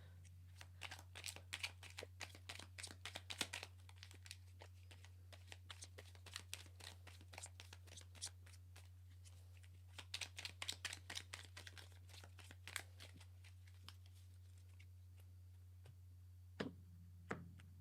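Tarot cards being shuffled and handled, heard faintly: rapid flurries of light card clicks, one near the start and another about ten seconds in, with a couple of single taps near the end.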